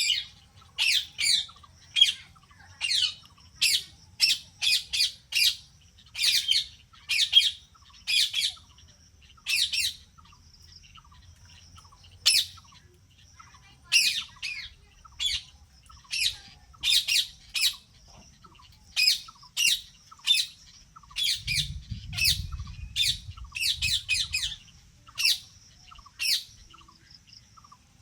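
Parrot squawking over and over in short, high calls, about one or two a second, stopping shortly before the end.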